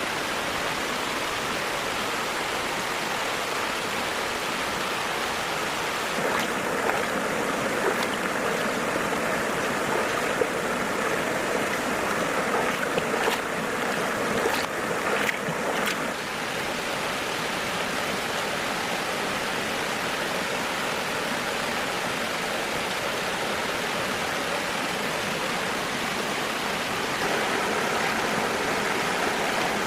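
Steady rushing of flowing water, like a forest stream. It has a few sharp clicks or taps in the middle.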